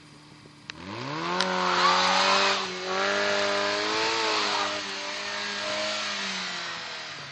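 Volkswagen Polo's engine revving hard as the car is driven off-road. The revs climb steeply about a second in, stay high with a brief dip near three seconds, and fall away near the end.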